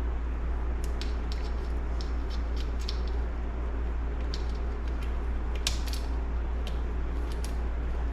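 Light scattered clicks and ticks of small metal engine parts and a screw being handled and fitted by hand, over a steady low hum.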